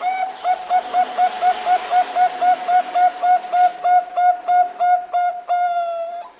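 Zebra dove (Bangkok perkutut) calling: a rapid series of short, clear cooing notes, about four a second, closing with one longer drawn-out note near the end.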